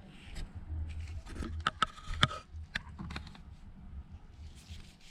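Scattered small clicks and light scrapes of a precision tri-point screwdriver working tiny screws out of an iPhone 11's internal bracket, over a low steady hum.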